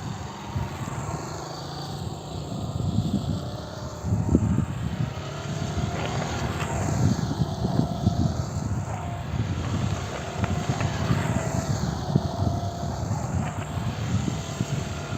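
Motorcycle being ridden in laps around cones in the rain, its engine sweeping past the microphone three times, about five seconds apart, over a steady rumbling wash of rain and wind.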